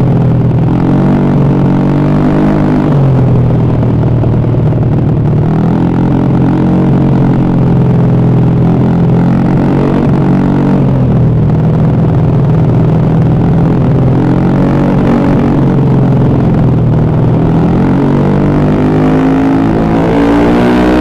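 Honda BeAT carburettor scooter's rebuilt single-cylinder engine revving, its pitch rising and falling slowly several times.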